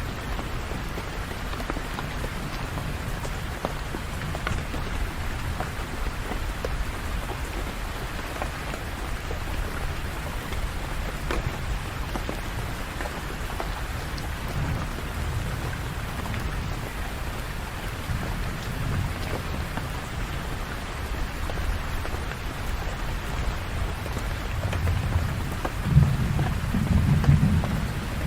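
Steady rain falling, with scattered drops ticking and a low rumble underneath that swells loudest near the end.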